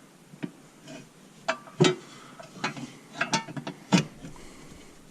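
A series of irregular sharp clicks and knocks from parts of the shifter assembly being handled and set in place by hand, the loudest a little before two seconds in and just before four seconds.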